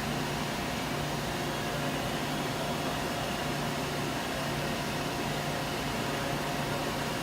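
Surface grinder running with a steady hum and hiss, its grinding wheel spinning.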